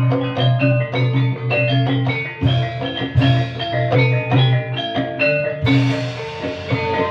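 Live ebeg dance music in dangdut-kreasi style: quick melodies on struck mallet percussion over a steady drum beat.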